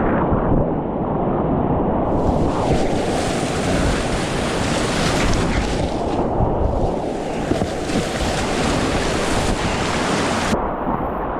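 Creek whitewater rushing around a kayak, a steady loud wash of water. About two seconds in a brighter hiss of spray joins it, and near the end that hiss cuts off suddenly.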